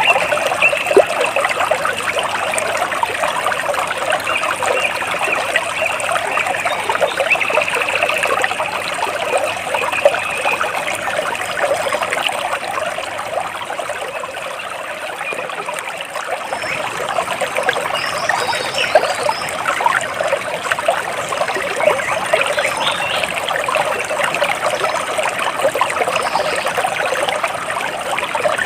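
Water splashing and trickling steadily, a continuous dense patter of small splashes.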